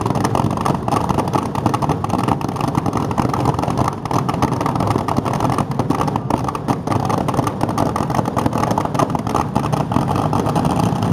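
A car engine running loudly and steadily, with many quick, uneven pulses.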